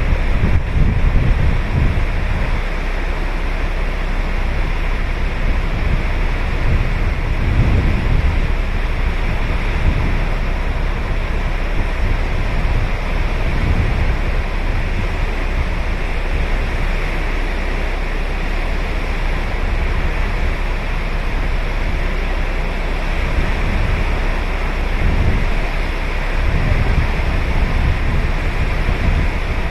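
Ocean waves breaking and washing onto the beach in a steady wash of surf, with gusts of wind buffeting the microphone as low rumbles now and then.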